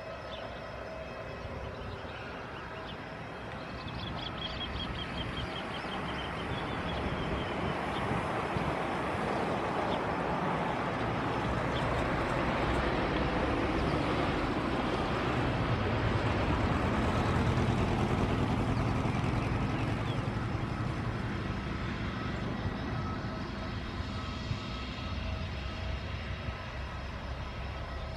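Airbus A319 jet engines at low power as the airliner taxis past: a steady rush with a whine that swells over about ten seconds, peaks in the middle, then slowly fades.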